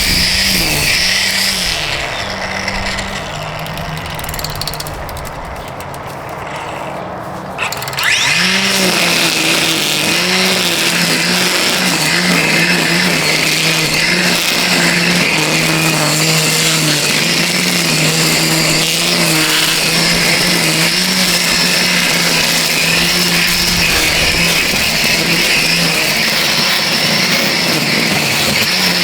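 DeWalt 20V Max brushless cordless string trimmer running, its motor whine with a hiss from the whirling line; the pitch dips again and again as the line bites into weeds. It eases off for several seconds, then speeds back up with a click about eight seconds in.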